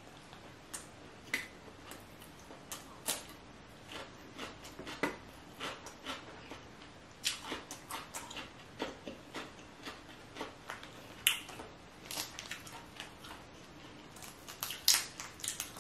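Close-miked chewing of seafood-boil food with the mouth closed: wet mouth clicks and smacks coming irregularly, a few a second, with a few louder clicks later on.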